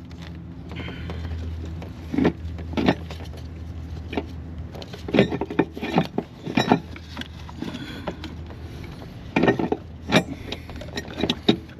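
Irregular metallic clinks and knocks of hand tools and engine parts being handled while parts are taken off to expose a shredded timing belt, over a low steady hum.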